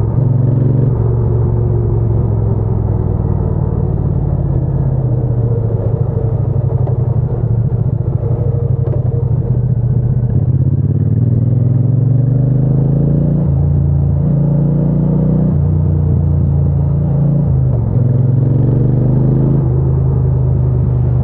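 Triumph Bonneville T120's parallel-twin engine and exhaust under way while riding, the engine note rising and falling with the throttle, with several abrupt pitch steps typical of gear changes.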